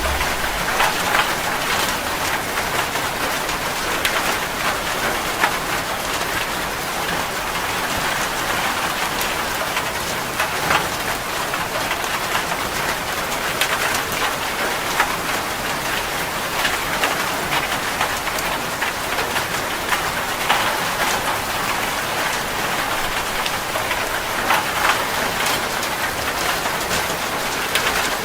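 Heavy rain drumming on a metal roof: a steady dense hiss with many sharper individual drop hits scattered through it.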